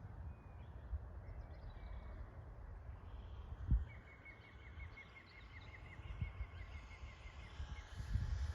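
Wind rumbling and buffeting on the microphone, with one sharp thump a little under four seconds in. Through the second half a bird chirps quickly and repeatedly, several short notes a second.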